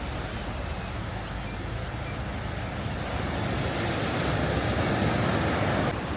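Sea waves washing on the shore, with wind on the microphone; the surge builds about halfway through and then cuts off suddenly near the end.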